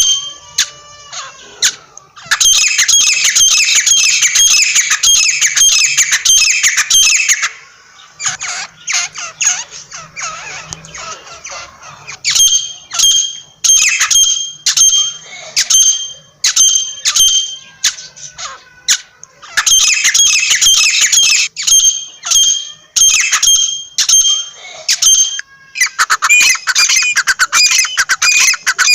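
Francolin (teetar) calling: rapid runs of shrill, harsh repeated notes, broken by a few short pauses.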